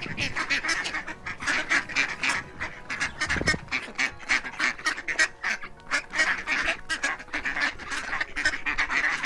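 A flock of domestic ducks quacking rapidly and continuously, with many calls overlapping.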